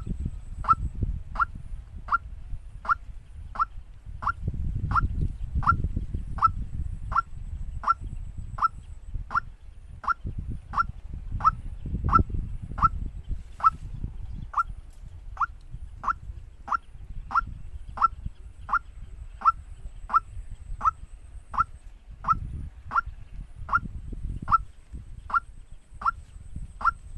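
Waterhen call: a short note dropping in pitch, repeated with an even beat about twice a second, over a low rumble.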